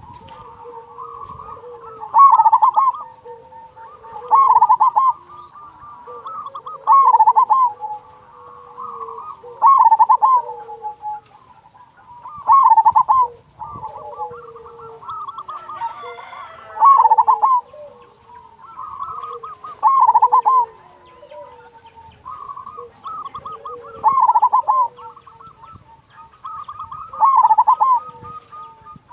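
Zebra dove (perkutut) singing its cooing song, about ten loud phrases in a row, one every two to three seconds, with fainter cooing between them.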